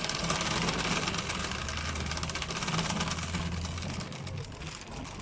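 Vehicle engine running with a steady low hum under road or wind noise; the hum fades out about four seconds in.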